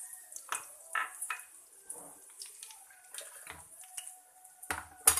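Scattered light clinks and taps of a utensil against a kadai while cumin seeds fry in hot oil, with two louder knocks just before the end.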